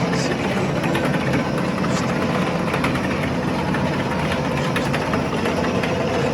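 Garage car lift's motor running steadily, a continuous mechanical hum with one constant tone through it.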